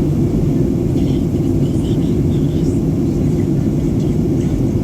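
Steady low cabin rumble of a Boeing 737-800 in descent: the noise of its CFM56 engines and the airflow over the fuselage, heard from inside the passenger cabin.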